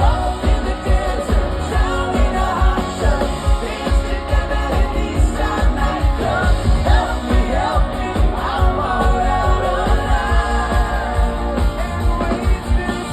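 Live pop-rock band playing with singing over a steady drum beat.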